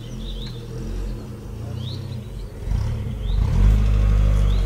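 A car engine running at low speed close by, its note rising and getting louder about three seconds in, then holding steady.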